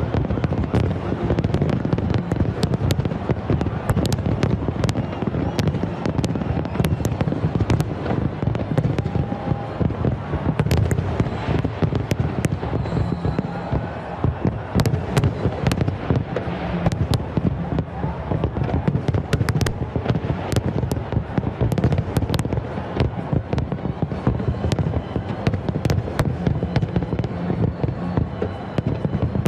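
Large fireworks display: a continuous run of irregular sharp bangs and crackles over a dense low rumble of explosions.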